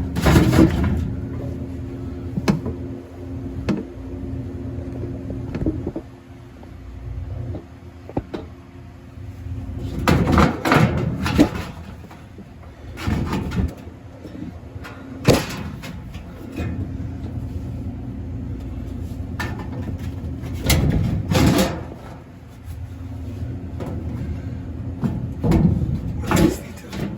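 Sheet-metal back panel of a refrigerated prep table being worked loose and lowered off the unit. Repeated clanks and rattles come in several separate bursts, over a steady background hum.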